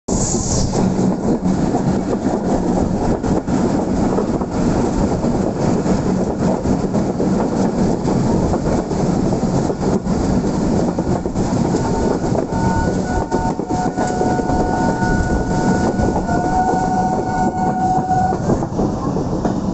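A train running along the track, heard from aboard: a steady, dense rumble and rattle of wheels and carriage. In the second half a few faint, thin, high tones come and go.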